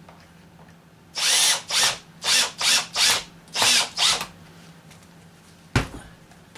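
Power drill driving screws in a series of seven short trigger bursts, each spinning up in pitch, snugging the screws tighter; a single sharp knock follows near the end.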